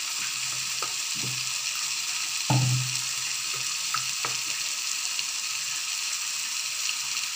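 Onion-tomato masala with coconut paste sizzling steadily in a non-stick pan, with a steel spatula knocking and scraping against the pan a few times; the loudest knock comes about two and a half seconds in.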